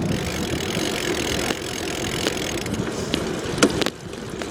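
Bicycle rolling along, heard through a camera taped to the bike: steady rumble of tyres on pavement and frame rattle, with a couple of sharp knocks about three seconds in.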